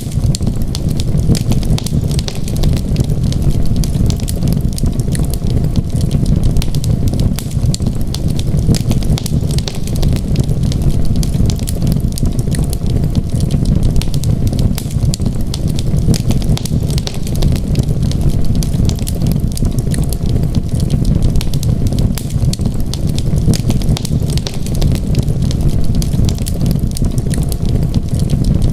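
Fireplace fire burning steadily: a constant low rumble of flames with dense, quick crackles and pops throughout.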